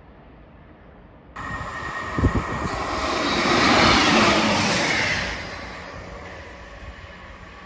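ScotRail diesel multiple unit passing at speed close by: a rush of engine and wheel-on-rail noise that starts abruptly about a second in, with a heavy thump soon after. It swells to a peak about four seconds in, then drops to a quieter steady rumble.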